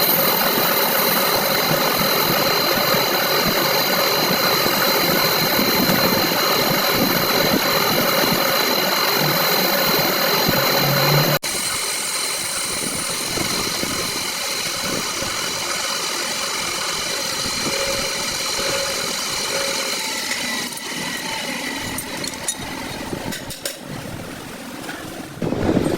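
A motor-driven machine running steadily with a constant hum. About eleven seconds in it cuts off abruptly and a quieter machine sound carries on, with a few clicks near the end.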